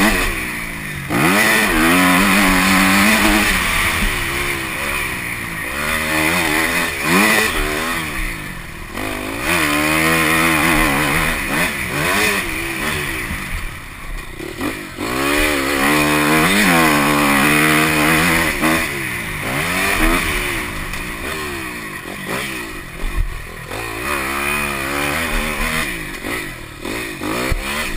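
Motocross dirt bike engine being ridden hard, revving up and dropping back over and over as the rider accelerates, shifts and backs off, with a steady rushing noise underneath.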